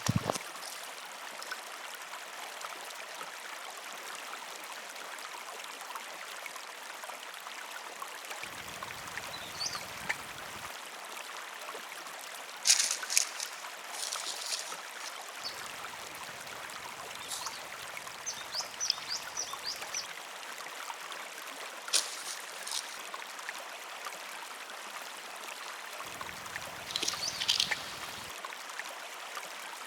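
River water flowing steadily, with a few scattered sharp clicks and knocks.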